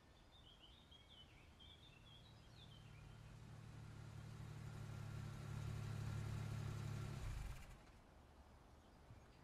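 A car engine's low, steady hum grows louder over several seconds and cuts off suddenly about three-quarters of the way through, with a few bird chirps in the first few seconds.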